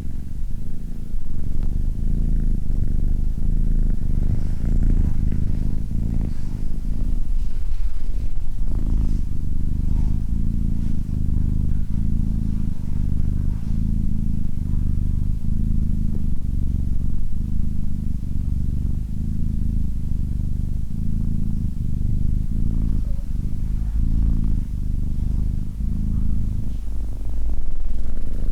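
Domestic cat purring steadily: a low rumble that swells and eases in a regular, repeating rhythm.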